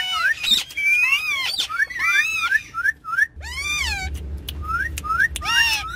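Ringneck parrots whistling and chirping: a string of short rising chirps mixed with longer arched whistled calls. A low rumble joins in about halfway through.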